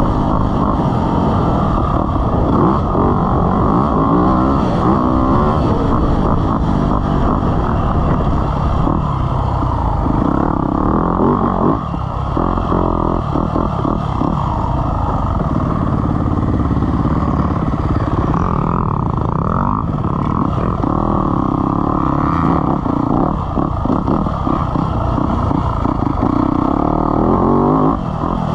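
Dirt bike engine running hard on a motocross track, the revs rising and falling over and over as the rider works the throttle and gears.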